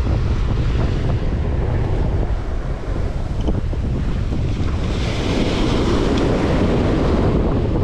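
Ocean surf breaking and washing up a sandy beach, with wind rumbling on the microphone; a wave's wash swells up about five seconds in.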